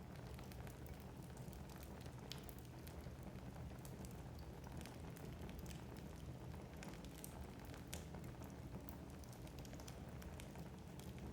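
Wood fire burning in a fireplace, crackling with frequent irregular snaps over a low, steady rumble.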